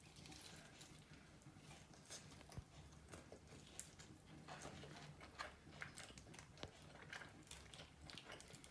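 Faint chewing and mouth smacks of a person eating, a scatter of soft crisp clicks that come more often from about three seconds in.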